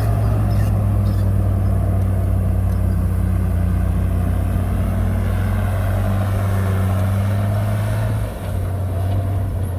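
Diesel engine of a heavy earthmoving machine running steadily at a constant pitch, dipping briefly in speed and level about eight seconds in.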